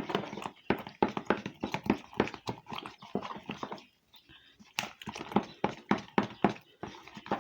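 A spoon stirring freshly mixed oils and lye solution for soap, knocking and scraping against the container in quick irregular strokes, with a pause of about a second just before the middle.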